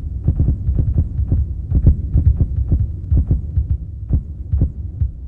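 A heartbeat sound effect: a run of quick, deep low thumps that grows fainter near the end.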